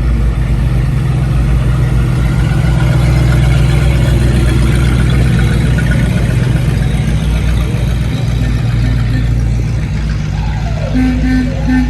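Car engine idling steadily, loud and close, with a deep low-pitched note.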